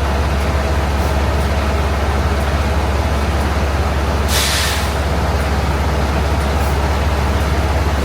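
Semi-truck's diesel engine running with a steady low rumble. A short burst of air hiss from the truck's air brakes comes about four seconds in.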